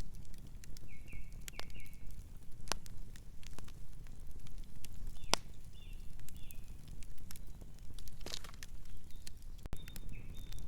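Campfire burning: wood crackling with scattered sharp pops over a low steady rumble. A few short high squeaks come in now and then.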